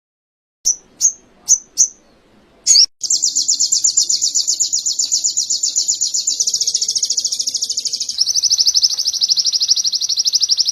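A sogon (little spiderhunter) singing canary-style song. It gives four short sharp chirps and one more, then about three seconds in goes into a long, fast, high rolling trill of rapidly repeated notes. The trill changes its note pattern twice along the way.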